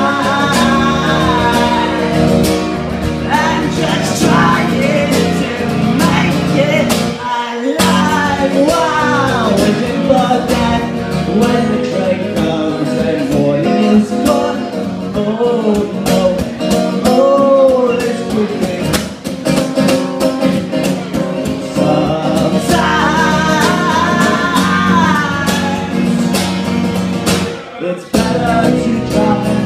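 Live indie folk band music with guitar, a sliding melodic line carried over the top, the low end cutting out briefly twice.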